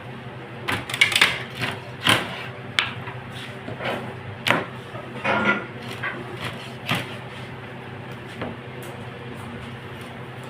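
Irregular knocks and clatters of things being handled, about a dozen in the first seven seconds, over a steady low hum.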